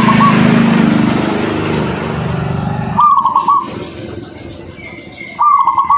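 Zebra dove (perkutut) cooing: two short phrases of quick staccato notes, about 3 s and 5.5 s in. During the first half a motor vehicle runs in the background, fading out before the first phrase.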